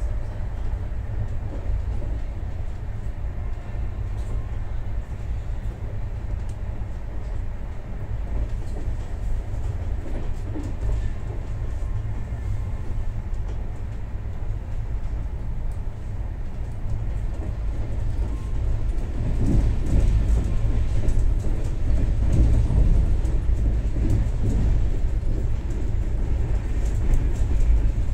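Passenger train running at speed, heard from inside the coach through a closed window: a steady low rumble of wheels on the rails with faint rattling, growing louder about two-thirds of the way through.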